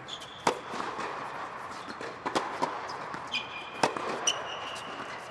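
Tennis balls struck by rackets during a rally, sharp pops a second or two apart, with short high squeaks in between.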